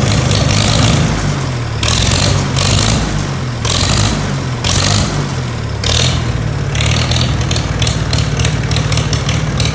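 Farmall tractor engine running loud, revved up and down over and over in surges of about a second each.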